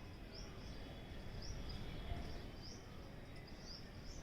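A small bird repeating a short, high chirp about once a second, over steady low outdoor background noise.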